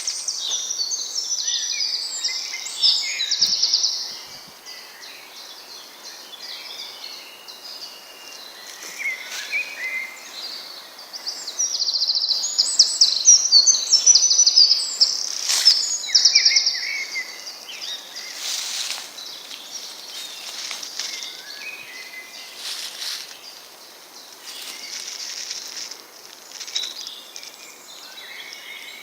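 Several songbirds singing and chirping in quick, trilling phrases. The song is loudest in the first few seconds and again from about twelve to seventeen seconds in, with softer scattered calls between.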